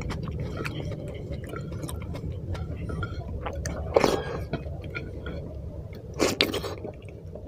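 Wet chewing and squishing of gravy-soaked rice eaten by hand, with many small mouth clicks. There are louder wet mouthfuls about four seconds in and again about six seconds in.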